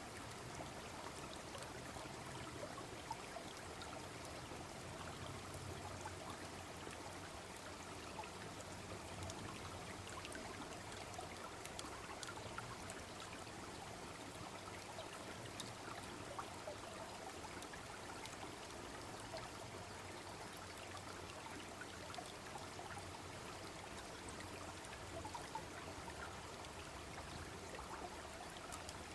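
A small babbling brook flowing steadily, with scattered small crackles and pops from a wood fire burning.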